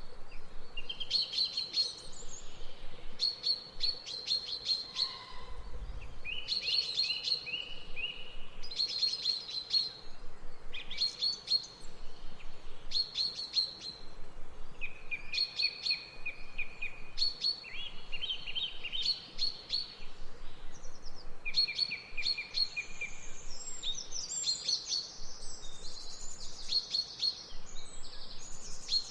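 Songbirds chirping: short bursts of rapid, repeated chirps every second or two, turning into a busier, higher, more varied warbling song near the end, over a soft steady background hiss.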